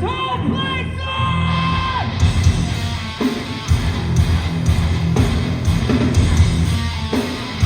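Live hardcore band playing loud, with distorted guitars, bass and drums. A long held shout rides over the band for the first couple of seconds.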